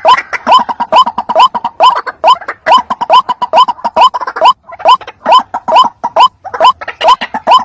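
White-breasted waterhen calling: a loud, fast, unbroken series of short rising 'ruak' notes, about two or three a second, the repeated call used as a lure for this bird.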